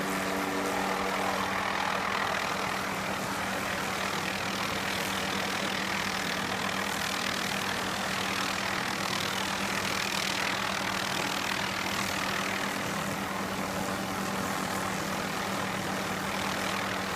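Helicopter running steadily, a constant engine-and-rotor drone with a steady low hum underneath.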